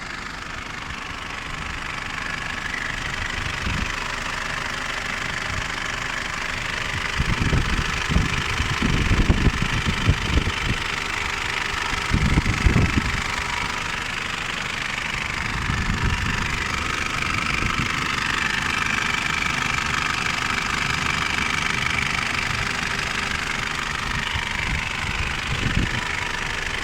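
Freshly rebuilt Mitsubishi Pajero 4M41 3.2-litre four-cylinder turbodiesel running with a strange noise. Irregular low thumps come about a third of the way in, over the steady engine sound.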